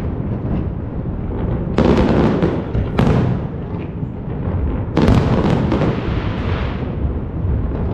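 A series of sudden loud booms, each trailing off in a long low rumble: three main bangs about two, three and five seconds in, with smaller cracks after the last.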